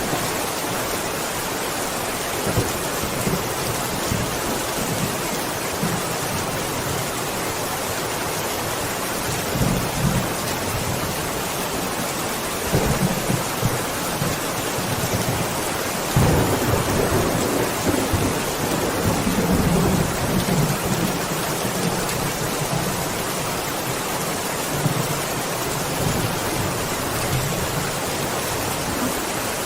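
Steady rain hissing, with rolling thunder. There are short rumbles about ten and thirteen seconds in, and a longer, louder peal from about sixteen to twenty-one seconds.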